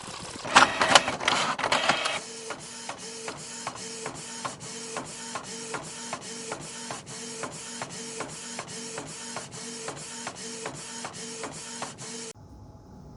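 3D printer running, its stepper motors making an even rhythm of short tones and clicks, about two and a half a second. There is a louder burst of noise about half a second in, and the sound stops suddenly near the end.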